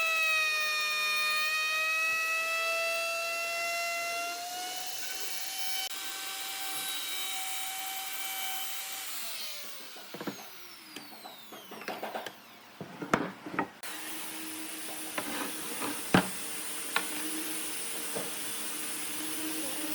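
Woodworking lathe running with a steady motor whine, then switched off about nine seconds in and winding down. Several sharp wooden knocks and clatters follow, and a lower steady hum with a hiss sets in about two thirds of the way through.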